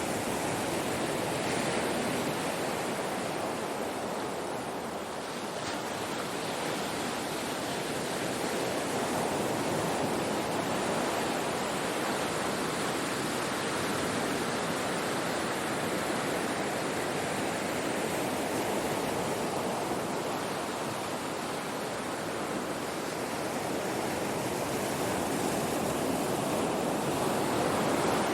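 Ocean surf washing on a shore: a continuous wash of water that slowly swells and eases over several seconds, with no sharp breaks.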